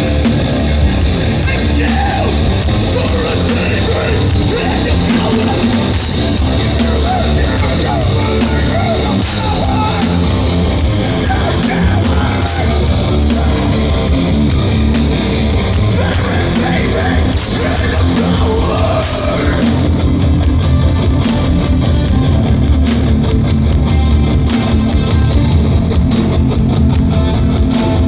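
Loud live hardcore/metal band: distorted guitars, bass and drums, with shouted vocals.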